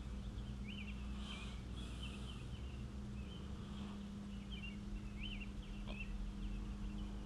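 Small birds chirping, with short quick chirps scattered throughout, over a low steady hum.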